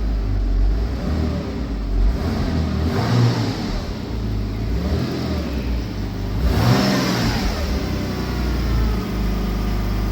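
Porsche Boxster engine running shortly after a cold start, blipped briefly about four times, each rev rising and falling back to a steady idle.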